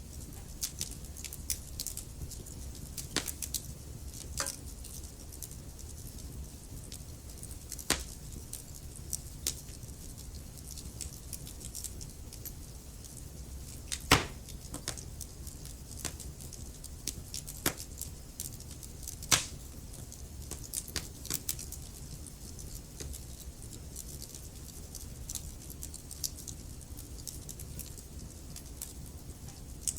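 Wood fire burning in a fireplace: a steady low rumble of the flames with irregular crackles and occasional louder pops from the burning logs.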